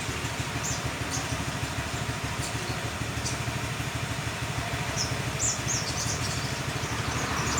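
Young olive-backed sunbird giving short, high, thin chirps, a few singly and then a quick run of them near the end. Under them runs a steady, louder low rumble of an idling engine.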